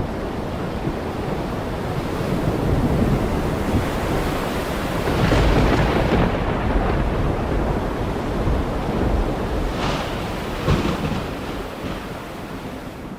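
Heavy rain falling steadily with thunder. A low rumble swells about five seconds in, two sharp cracks come about ten and eleven seconds in, and the storm eases a little near the end.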